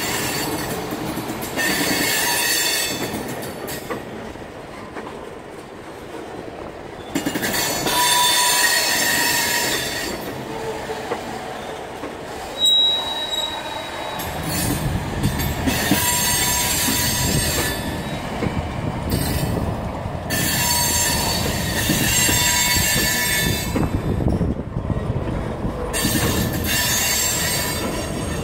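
Freight train tank cars rolling past at close range, steel wheels squealing in repeated bursts of a few seconds each. Underneath, the rumble and clack of the wheels over the rails grows louder from about halfway through.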